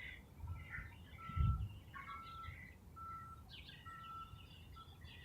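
Birds calling faintly: a string of short whistled notes on one pitch, repeated about once a second, with higher chirps scattered between them. A soft low thump about one and a half seconds in.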